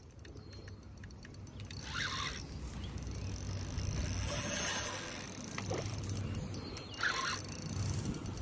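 Spinning fishing reel being cranked while a hooked carp is played, its gears ticking rapidly in short spells, over a low steady wind rumble.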